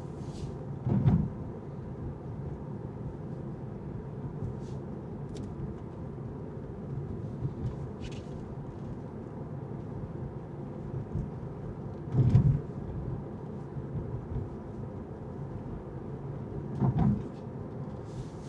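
A car driving: a steady low rumble of road and engine noise, with three dull thumps, about a second in, midway, and near the end.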